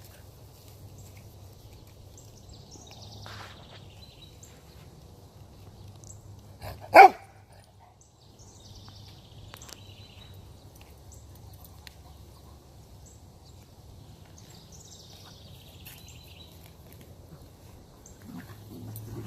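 A puppy gives a single short, loud bark about seven seconds in, against a low steady hum.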